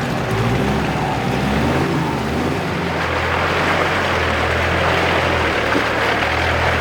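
Off-road 4x4 engine running steadily while driving, under a broad rush of wind and tyre noise.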